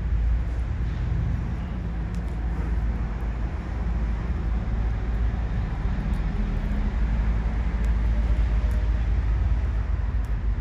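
A steady low rumble, with a few faint, sharp pops from ubame oak firewood burning in an open fire pit.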